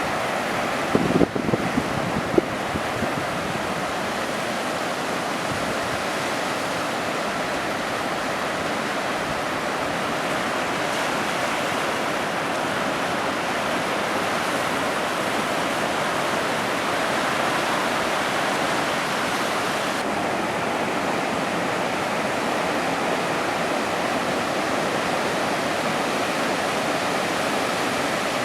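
Steady hiss of ocean surf, unbroken by any single wave, with a few brief sharp sounds in the first couple of seconds.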